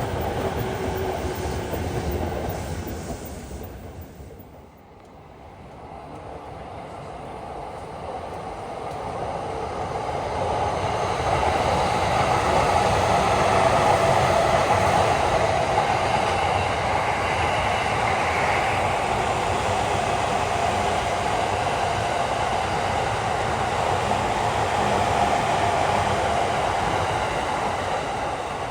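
Electric commuter train running on the track, a loud steady train noise. It drops away sharply about five seconds in, then builds up over several seconds and holds steady for the rest.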